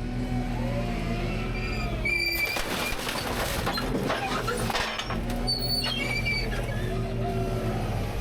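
Rear-load garbage truck running, with its engine humming steadily and hydraulics changing pitch. There are two bursts of metal clatter and short high squeals, one about two seconds in and one past the middle, as the hopper works the load.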